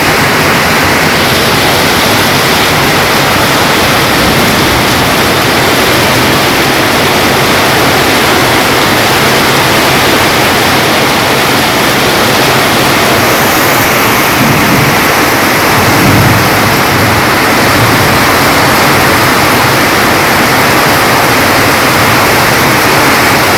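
Heavy downpour of rain in a storm, a loud, steady rush with no breaks.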